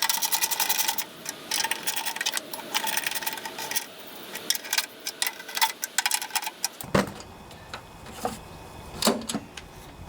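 Rapid ratcheting clicks of a socket wrench running bolts back in, which fade in the middle, followed by a few separate knocks and taps of tools and parts near the end.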